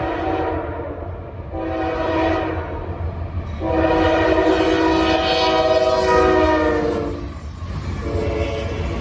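Norfolk Southern locomotive's multi-chime air horn sounding a series of blasts: a short one ending about a second in, another around two seconds in, a long blast of about three and a half seconds in the middle that sags slightly in pitch as it ends, and a fresh blast starting near the end. The locomotives' steady low rumble runs beneath it.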